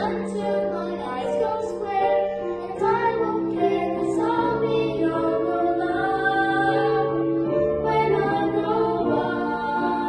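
A children's ensemble singing a show tune together over instrumental accompaniment with held low notes.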